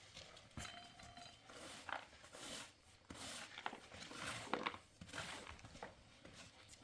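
Faint rustling and scattered light clicks and taps, with no steady source.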